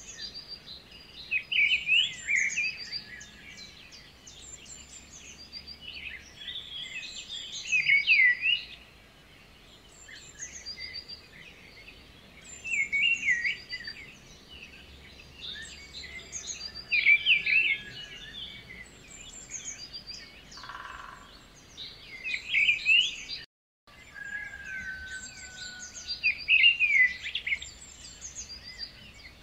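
Birds chirping and trilling in quick repeated phrases, with louder bursts every few seconds. The sound cuts out completely for a split second about 23 seconds in.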